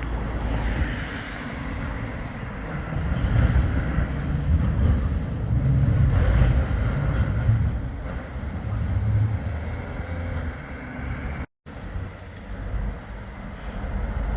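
A tram and road traffic rumbling past in the street, the low rumble swelling in the middle. It cuts out abruptly for a moment near the end, then resumes.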